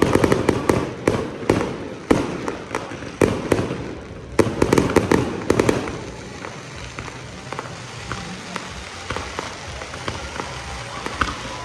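Fireworks going off: a rapid string of sharp bangs and crackling for the first six seconds or so, thinning out to sparse, fainter pops after that.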